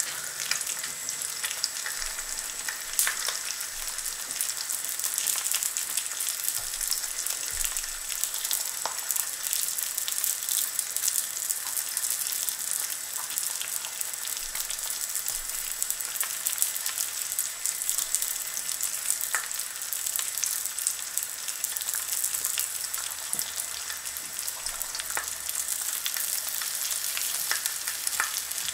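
Bacon, black pudding and eggy bread frying in a carbon steel pan: a steady hiss of hot fat with constant fine crackling pops.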